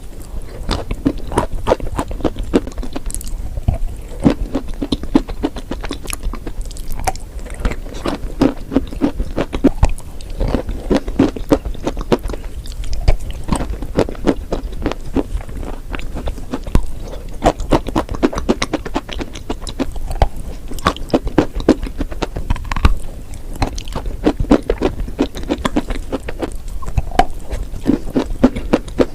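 Close-miked biting and chewing of chalk and clay: a steady stream of dense, crisp crunches and crackles, with sharper snaps now and then.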